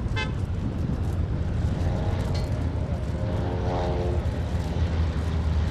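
Light piston-engined propeller aircraft flying past: a steady low engine drone, with the propeller's buzzing tone swelling up about two seconds in and fading again a couple of seconds later.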